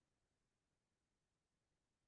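Near silence: digital silence with no audible sound.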